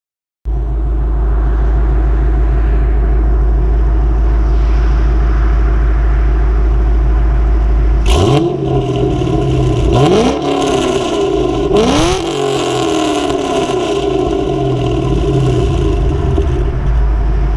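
2006 Pontiac GTO's LS2 V8 idling with a deep, loud rumble through Kooks headers and a Corsa cat-back exhaust. It is blipped three times in quick succession, each rev rising sharply and falling back, about two seconds apart, then it settles back to idle.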